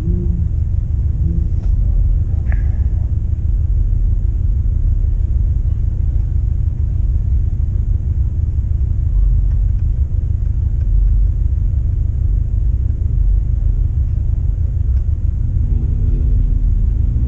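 Steady low rumble of a moving car, road and wind noise. Near the end an engine note starts to rise as the car accelerates.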